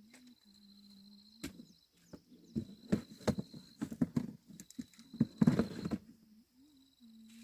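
An irregular run of sharp clicks and knocks, densest and loudest in the middle, over a faint steady hum.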